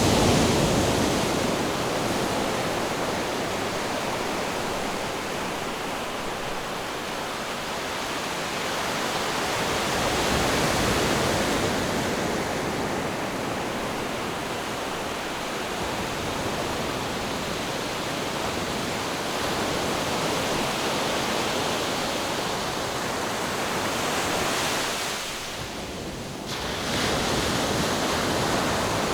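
Ocean surf: a continuous rush of waves washing ashore, swelling as a wave breaks near the start, again about ten seconds in and again near the end.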